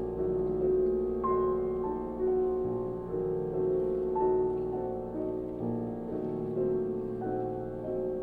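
Slow, soft piano music: sustained notes and chords changing about once a second.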